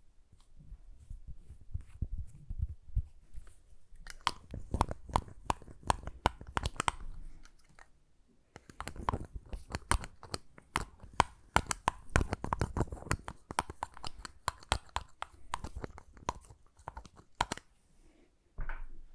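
Close-miked lip balm ASMR sounds: dense, sticky crackling and clicking in two long runs, with a short pause about eight seconds in.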